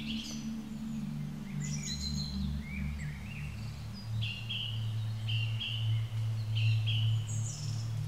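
Birds chirping and whistling short phrases, with a repeated two-note call from about four seconds in, over a low sustained drone.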